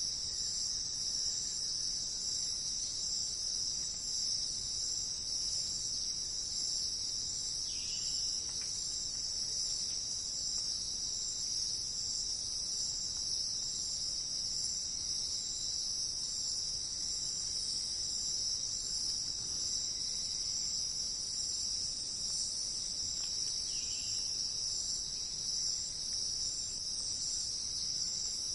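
Steady, unbroken high-pitched insect chorus, crickets or similar, with a couple of faint short chirps over it.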